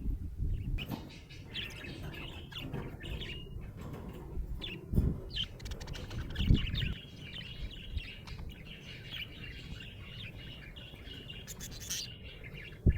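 Budgerigar chirping and chattering: short high chirps that run together into a steady warbling chatter through the middle. There are a couple of low thumps about five and six and a half seconds in.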